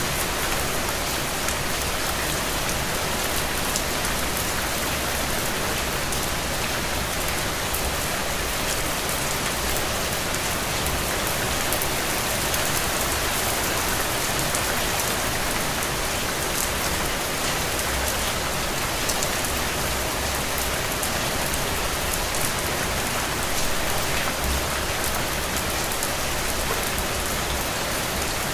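Steady, dense rainfall pattering on surfaces, with fine scattered drop ticks and a faint low rumble now and then.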